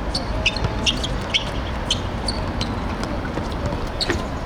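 Ambient sound of an outdoor seven-a-side football match: a steady low background rumble with many short, sharp high-pitched clicks and squeaks scattered throughout.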